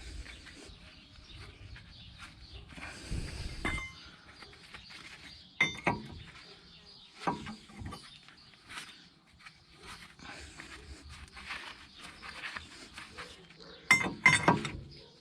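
Metal hand tools and parts clinking and knocking against each other during front wheel bearing work. There are a few sharp metallic clinks with a short ring, the loudest two close together near the end, and a brief scraping rattle a few seconds in.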